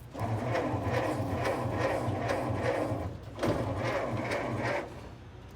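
Ford Model T four-cylinder engine turned over by its electric starter without firing, in a long crank of about three seconds and then a shorter second try, the compression pulses coming about twice a second. It won't catch because the fuel had been shut off.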